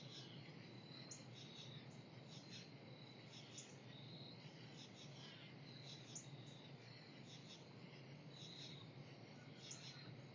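Faint insect chirring with many short, high bird chip notes scattered throughout, over a low steady hum.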